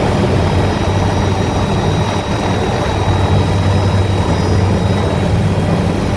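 Helicopter running steadily: a constant low rotor and engine drone under a wash of noise, with a faint steady high whine.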